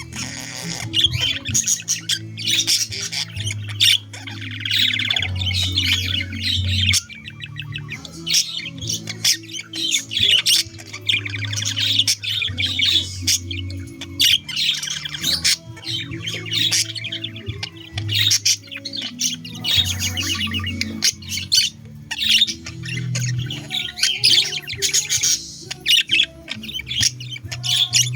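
Budgerigars chattering and squawking, a dense run of quick chirps throughout, over background music with steady low notes.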